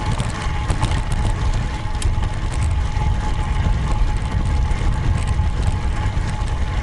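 Riding noise from a road bike in motion: a steady wind rumble on the camera's microphone with tyre hiss on the road, a thin steady tone and scattered light clicks.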